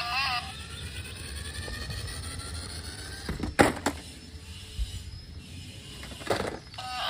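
Sharp knocks, two close together about three and a half seconds in and another near the end, over a low rumble and a faint rising whine.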